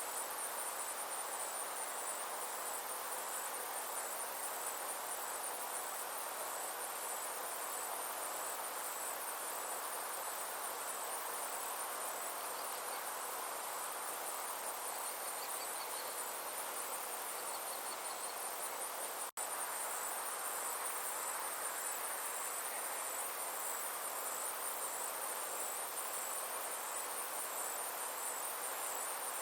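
A steady chorus of insects trilling, a fast high pulsing that runs on without a break, over a soft even background hiss. There is a brief dropout about two-thirds of the way through.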